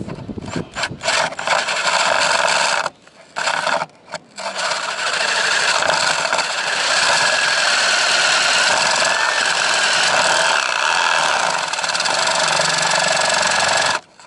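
Power drill widening a hole for a cable by working the bit around in it. It runs in short starts at first, then runs steadily for about ten seconds and stops just before the end.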